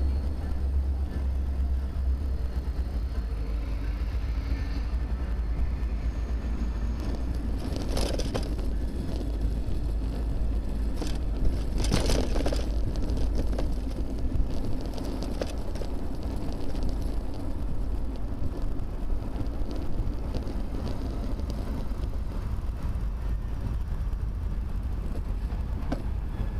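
Wind rumble and road noise on a bicycle-mounted camera while riding, with two brief louder swells of passing traffic about a third and about halfway through.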